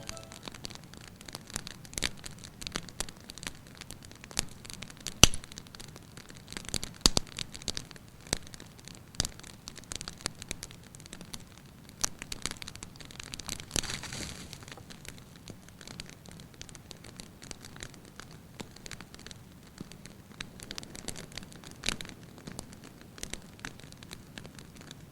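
Wood fire crackling, with irregular sharp pops; the loudest pop comes about five seconds in.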